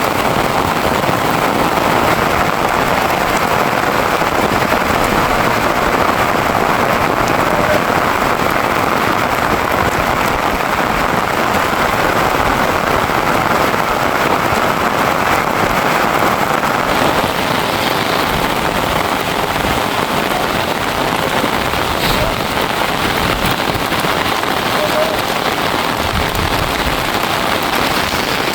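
Steady, loud rain falling, an even dense hiss of drops, whose sound changes a little about two-thirds of the way through.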